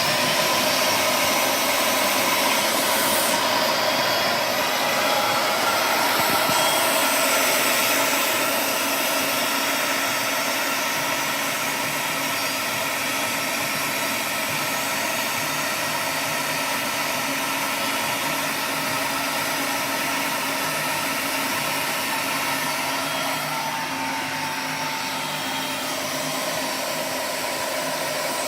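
Portable band saw running steadily through a cut, a continuous motor whine with blade noise that eases slightly about eight seconds in.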